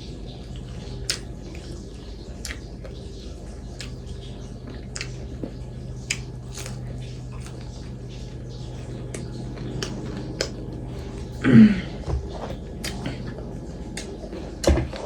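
Close-miked eating: chewing and mouth clicks, short sharp smacks every second or so over a faint steady hum, with one louder brief sound about eleven and a half seconds in.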